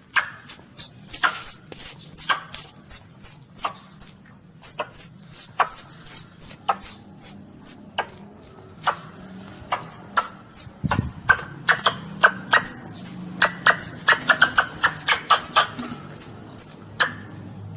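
Hunting-lure recording of young Asian palm civets (luwak kits) calling: a rapid series of short, high squeaks, each falling in pitch, about two to three a second, coming faster in the second half.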